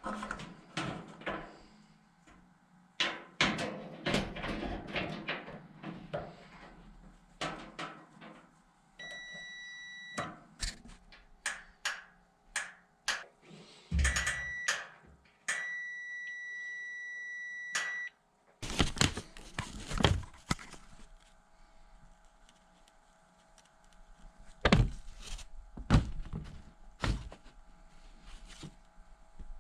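Repeated clicks, knocks and clunks of parts and tools being handled, the loudest in the second half. A steady high electronic beep sounds three times in the middle: about a second, then half a second, then about two and a half seconds.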